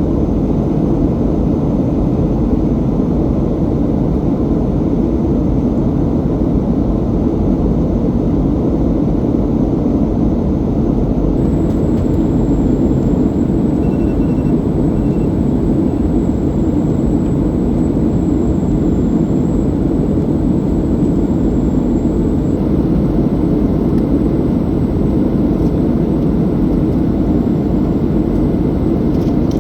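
Steady cabin noise of a Boeing 737-800 in flight: its CFM56-7B turbofans and the airflow over the fuselage make an unbroken low rushing hum.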